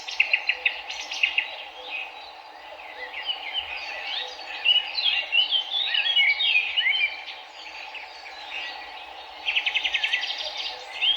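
Several songbirds chirping and singing over the steady rush of a river, with quick trills of rapidly repeated notes near the start and again about nine and a half seconds in.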